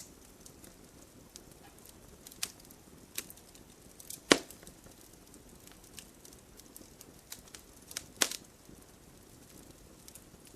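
Wood fire burning in a fireplace: scattered small crackles over a low steady hiss, with two louder sharp pops, about four seconds in and again about eight seconds in.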